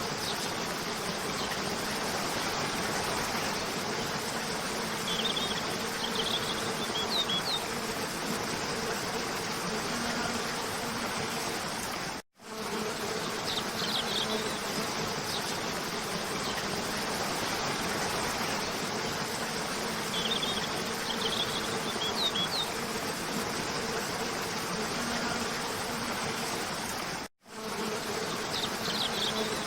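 Waterfall water rushing steadily, with small clusters of short, high bird chirps every few seconds. The sound cuts out completely for a moment twice, about 12 and 27 seconds in, where the looped recording restarts.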